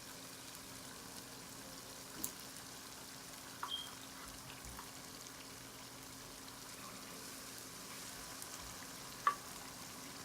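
Chicken pieces and onion-tomato masala sizzling in a pan over low heat: a steady, faint frying hiss, with a few sharp clicks about two, four and nine seconds in.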